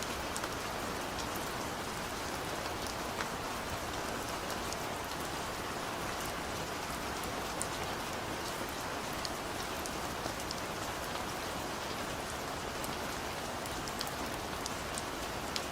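Steady rainfall with distinct drops pattering on a surface, no thunder.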